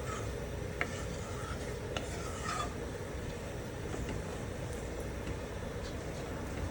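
Utensil stirring and scraping in a cooking pan, with two sharp clicks against it, over a steady low hum.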